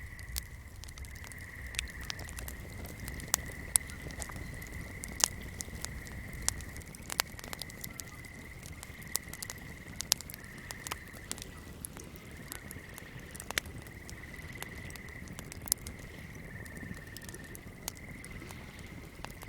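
A burning candle crackling in irregular sharp pops, over a steady high-pitched swamp chorus that trills on without a break. A low rumble underneath fades out about seven seconds in.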